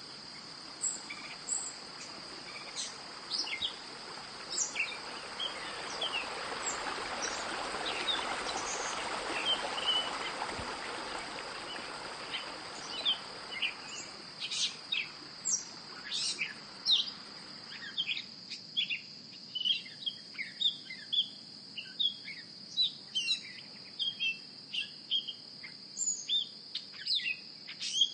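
Outdoor ambience: birds chirping in quick, repeated short calls over a steady, high-pitched insect drone. A broad hiss swells up a few seconds in and fades away about two-thirds of the way through.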